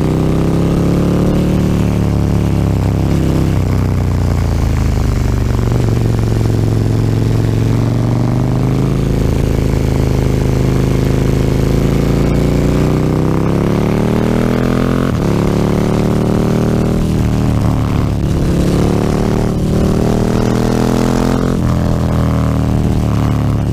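KTM 1290 Super Duke R's V-twin engine with an Akrapovic slip-on exhaust, ridden under way: its pitch rises and falls with the throttle, dipping sharply about two thirds of the way through and again near the end.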